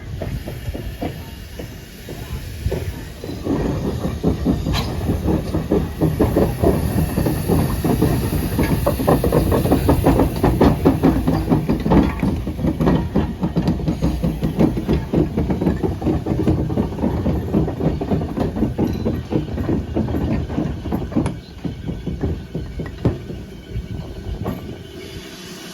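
Train moving along the track, wheels clattering and clicking over the rails with a low rumble and a hiss of steam; it swells a few seconds in and eases near the end.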